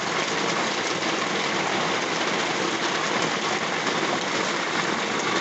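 Moderate rain falling steadily, a continuous even rush of rain on roofs and ground.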